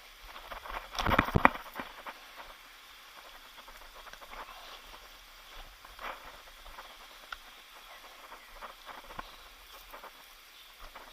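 Scuffing and knocking like footsteps on a rocky, leafy trail: a loud cluster of knocks about a second in, then scattered lighter clicks and steps.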